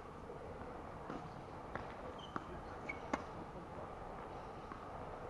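Tennis balls being hit and bouncing during play: a handful of short, sharp knocks in the first three seconds or so, the loudest a little after three seconds in.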